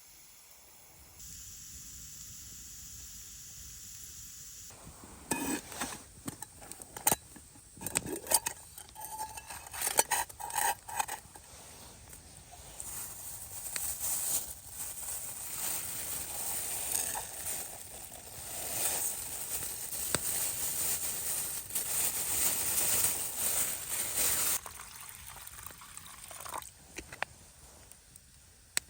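Clinks and knocks of camp cookware and utensils, a string of sharp strikes for several seconds, followed by a long stretch of steady hissing that fades out near the end.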